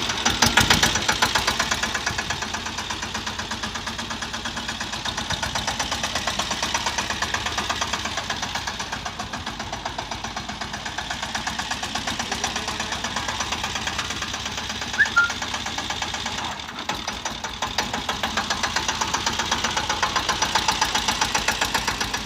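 Engine of a 10 HP three-wheeled mini tractor running with a steady, rapid knocking beat. Its level dips briefly about 17 seconds in, then comes back up.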